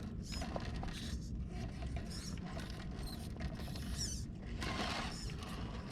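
RC rock crawler's electric motor and geared drivetrain running in low-speed pulses as it crawls over rock, with tires and chassis scraping on the stone.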